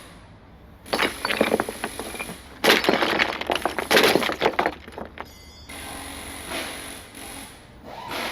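Crashing, crackling impact noise like something shattering, in two bursts: one about a second in, and a longer one from just under three seconds to nearly five seconds in.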